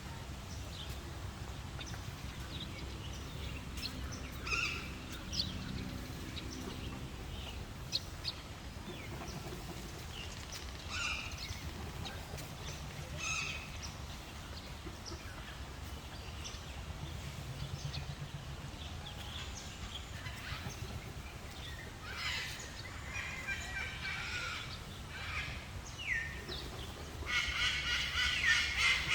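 Birds calling: scattered short calls over a steady low background hum. Near the end, a louder, rapid run of repeated calls sets in.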